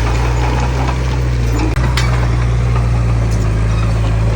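Heavy diesel engine of earthmoving machinery running at a steady speed, with a deep, even hum.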